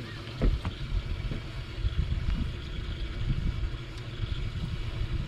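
Low, uneven rumble of a fishing boat on the water, with a few irregular thumps, the strongest about half a second in.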